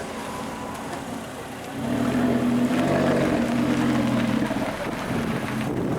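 A car engine running steadily close by, growing louder about two seconds in and easing off a little near the end.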